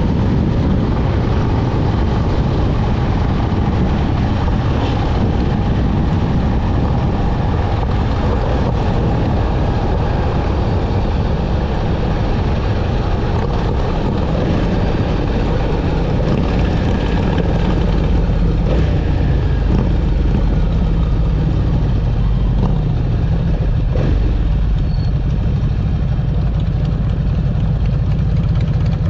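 Motorcycle engine running during a ride, with steady wind and road noise. In the last third the higher noise thins and a low engine rumble dominates.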